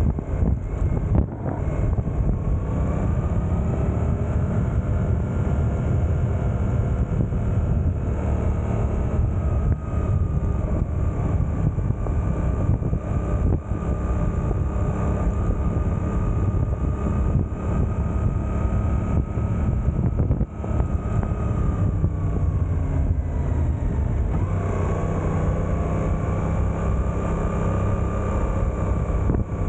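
Suzuki GSX-8S's 776 cc parallel-twin engine running in second gear at town speed. The revs climb about two seconds in, hold steady, then drop as the bike slows near the end before settling again.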